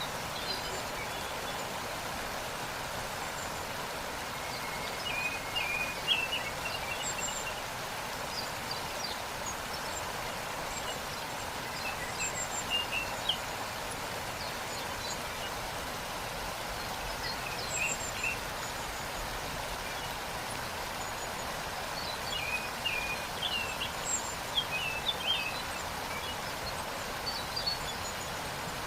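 Waterfall rushing steadily, with small birds chirping in short high calls now and then, most often about a fifth of the way in, near the middle and toward the end.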